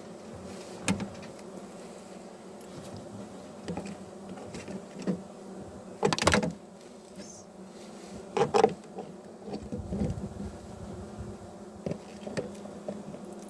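Honeybees buzzing steadily around a nuc hive, with a few short knocks and clatters as hive parts and a feeder are handled. The loudest knocks come about six and eight and a half seconds in.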